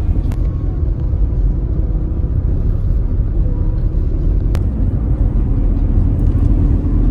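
Steady low rumble of a running vehicle, with a sharp click about four and a half seconds in.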